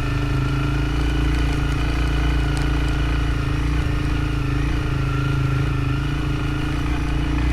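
Motorcycle engine running at a steady speed, its pitch holding nearly level.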